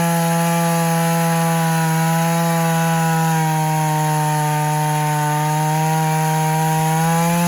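Vintage two-stroke chainsaw held at full throttle, cutting into a hickory trunk. Its pitch sags slightly about halfway through as the chain takes load and climbs back near the end.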